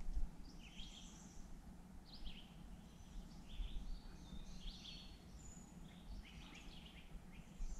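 Faint songbird calls, a scattering of short chirps and warbles, over a low steady background rumble.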